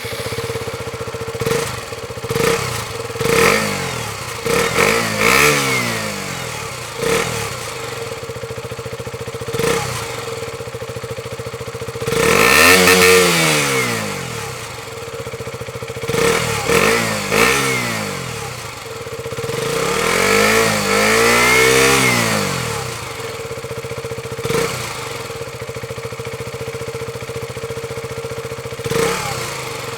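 2014 KTM Duke 125's single-cylinder four-stroke engine through its stock exhaust, idling and blipped by the throttle about a dozen times. Each rev rises and falls back to idle, two of them longer and higher near the middle and about two-thirds of the way through.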